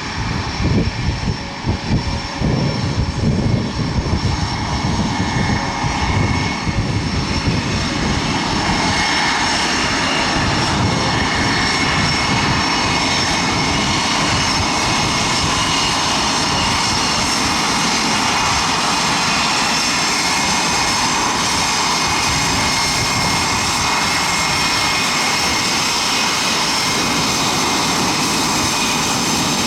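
Blue Angels F/A-18 Super Hornet jet engines running at taxi power: a steady high whine over a broad rush of jet noise. Wind buffets the microphone in the first several seconds.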